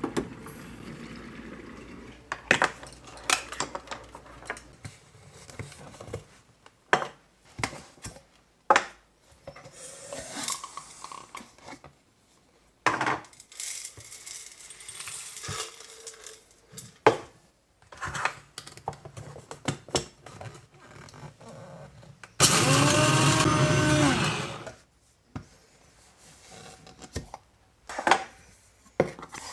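Coffee being made by hand: cups, spoons and utensils clink and knock off and on. Past the middle, a small electric kitchen appliance motor runs loudly for about two seconds, its pitch bending as it spins up and down, then stops.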